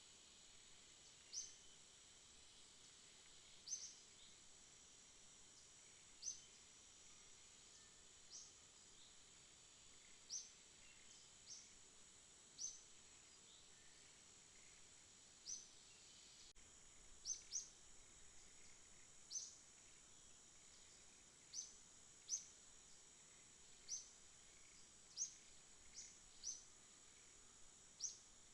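Faint night insect chorus: a steady high-pitched drone, with short, high, upward-sliding chirps repeating irregularly every second or two. A single sharp click comes about sixteen seconds in.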